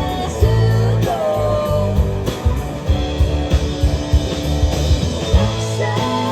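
Live band playing a rock song, with guitar, bass and drums. Steady drum hits run under held bass notes, and a sliding melody line plays on top.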